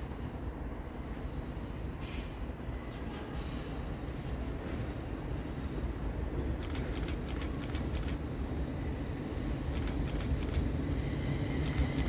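Class 350 Desiro electric multiple unit moving at the platform: a steady low rumble that slowly grows louder, with quick runs of sharp clicks in the second half.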